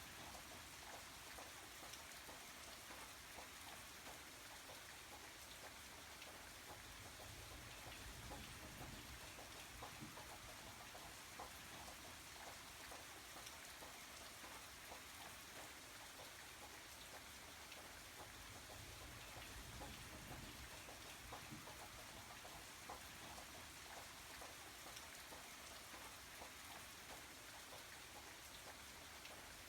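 Faint, steady rain falling, with many small drops ticking on a surface.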